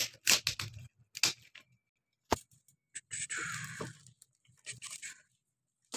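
Gift packaging being handled and unwrapped: several sharp clicks and crackles in the first second or so, a single sharp snap a little after two seconds, and a brief rustle about three seconds in.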